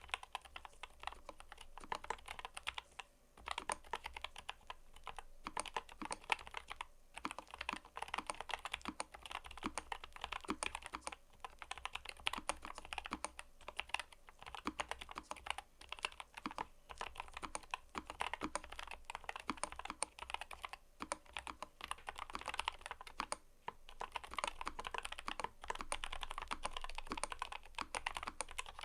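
Steady fast typing on a mechanical keyboard, a dense run of crisp key clicks and clacks, broken by a few brief pauses.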